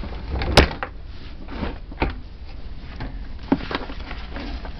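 A series of irregular knocks and clicks over a low steady rumble, the loudest knock about half a second in.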